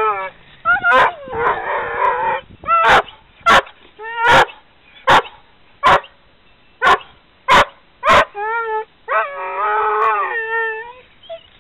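Dog whining and howling in excitement at the word 'bird', with a run of about eight sharp barks in the middle, roughly one every 0.8 s, before it goes back to howling near the end.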